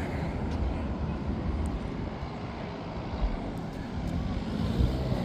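Steady low rumble of a running vehicle engine with outdoor street noise.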